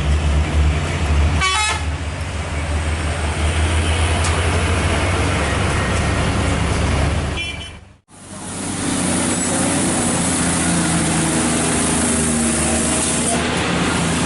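Heavy truck engine running steadily under load, with a short horn toot about a second and a half in. An abrupt cut near the middle leads into a different stretch of steady vehicle noise.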